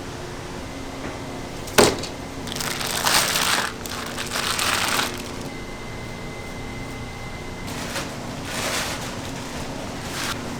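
Kitchen handling noises over a steady hum: a sharp knock about two seconds in, then two rustling, scraping stretches of about a second each, and a fainter one near the end.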